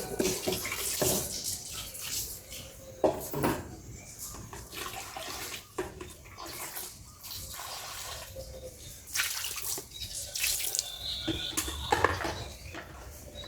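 Water splashing and pouring in irregular bursts, with several louder splashes.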